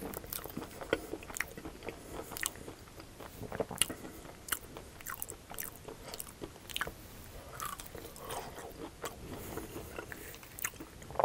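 Chewing a fried mashed-potato cake with a crispy breaded crust: irregular crunches and crackles of the crust between the teeth.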